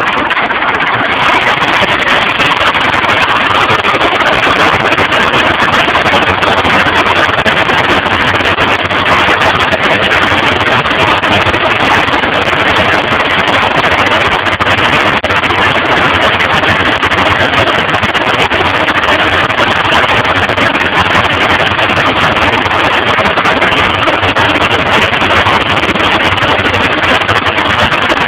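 Tractor engine running steadily, just after being started to work the loader's hydraulics.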